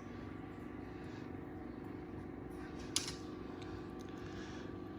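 Steady mechanical hum, like a running fan, with one sharp click about three seconds in.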